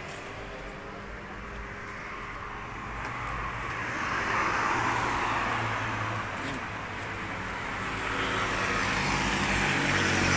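Road traffic passing: a steady low engine hum under a rushing tyre-and-engine noise that swells twice, about four seconds in and again near the end.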